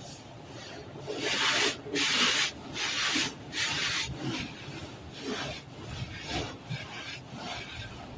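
Automatic car wash machinery working over the car, heard from inside the cabin: a rhythmic swishing about once a second, loudest a second or so in and fading toward the end.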